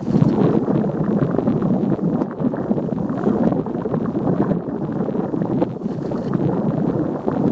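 Steady rushing noise of wind buffeting the microphone, flickering quickly in level.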